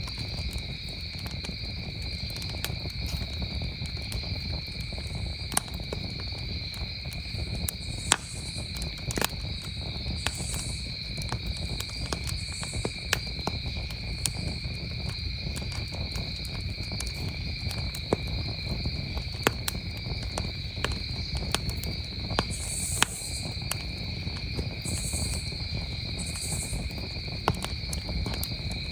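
Campfire crackling with irregular sharp pops, over the steady high chirring of crickets and a low rumble underneath.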